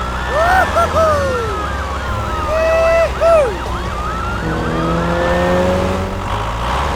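Emergency-vehicle siren in a fast, repeating rise-and-fall yelp, over a steady low engine hum, with a few separate sliding pitched tones mixed in.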